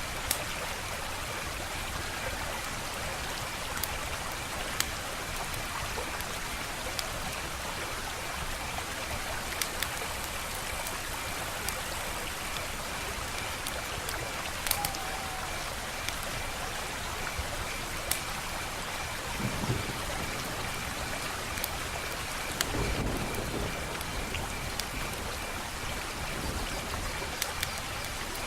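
Wood fire crackling: a steady hiss with sharp pops at irregular intervals, a few seconds apart. There are two soft low rumbles in the second half.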